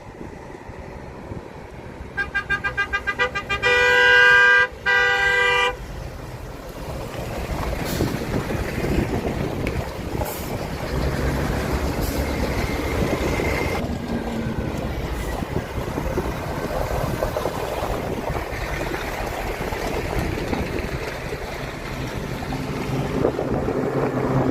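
A vehicle horn gives a fast string of short toots, then two long blasts, as the column sets off. A heavy vehicle's engine and road noise then run steadily underneath, building a little as it gets moving.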